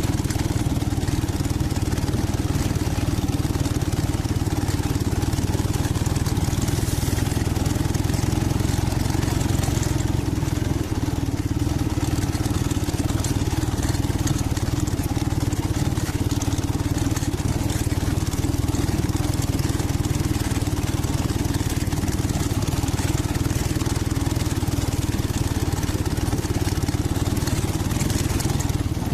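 Dnepr MT-11 motorcycle's flat-twin engine running steadily at an even pace.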